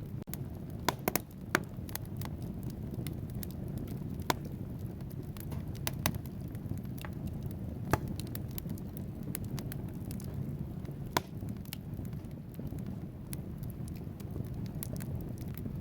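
Wood fire burning in a fireplace: a steady low rumble of flames with sharp, irregular crackles and pops from the logs, a few standing out louder.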